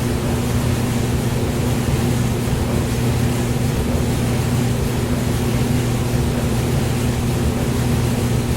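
Hair dryer running steadily: a continuous rush of blown air over a low, even motor hum.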